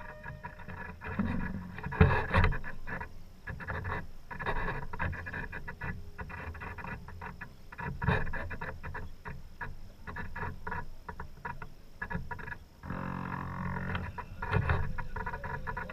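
A sailboat under way: irregular knocks and splashing noise of the boat moving through the water, with a short buzzy rattle near the end.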